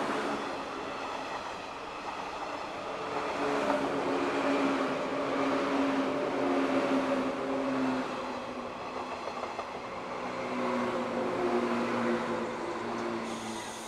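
JR East 185 series electric train passing: rumble of wheels on rail with a steady low hum that sinks slightly in pitch, fading near the end as the last car goes by.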